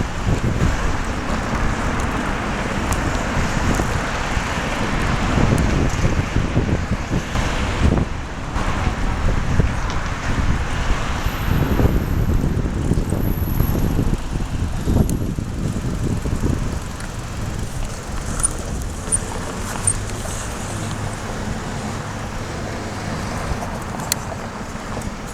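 Wind buffeting the microphone on a moving bicycle, with city street traffic going by; the wind eases in the second half and a steady low engine hum is heard under it for a few seconds.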